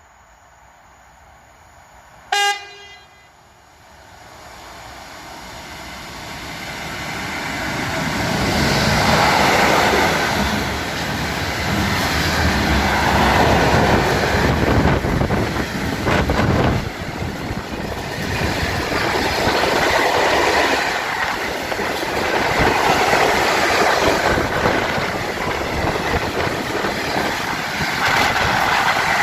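A train sounds one short horn blast, then comes in and runs past, the noise of wheels on rails building over several seconds and staying loud, rising and falling in swells.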